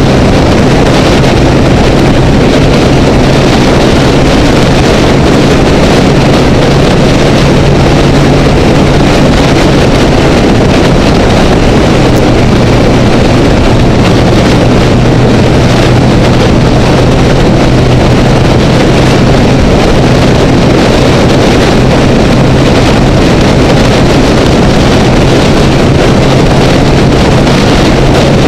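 Honda Rebel motorcycle engine running steadily at freeway speed under heavy wind and road rush, loud throughout. The engine note drops slightly about ten seconds in and holds there.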